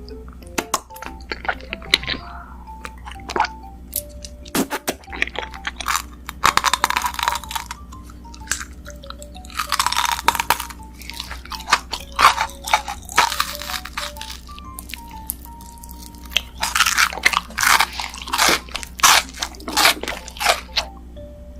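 A person biting and chewing crunchy food close to the microphone, in several bouts of loud crunching, over soft background music.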